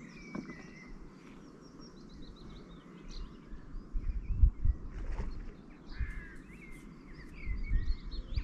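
Small birds chirping and warbling in quick, repeated high calls. A low rumble comes in gusts from about halfway through and is strongest near the end.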